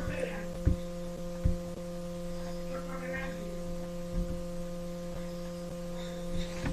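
Steady electrical mains hum with a few faint low thumps.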